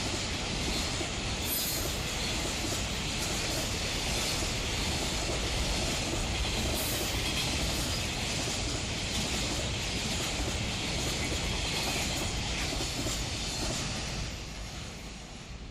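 Container freight train rolling past, a steady rumble and rattle of wagon wheels on the rails, fading away over the last couple of seconds as the end of the train goes by.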